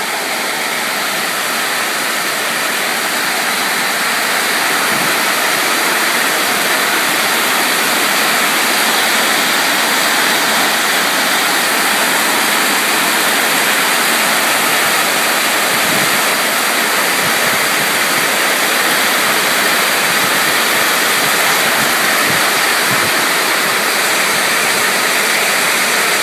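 Heavy rain pouring down over a flooded coulee, a loud, steady rush of water that builds a little in the first few seconds and then holds.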